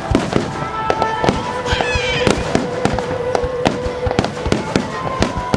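Fireworks finale barrage: shells bursting in rapid succession, several sharp bangs a second. Background music with held tones plays underneath.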